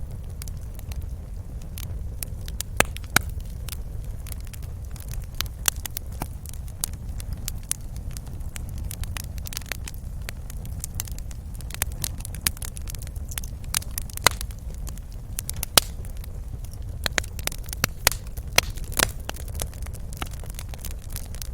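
Wood fire in a fireplace crackling: a steady low rumble of burning under irregular sharp snaps and pops, a few of them louder.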